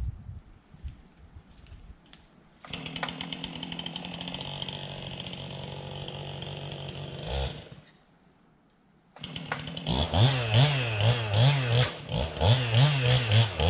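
Two-stroke chainsaw: it starts about three seconds in and runs steadily, then cuts out just before eight seconds. It starts again about a second later and is revved repeatedly, its engine speed rising and falling about once a second.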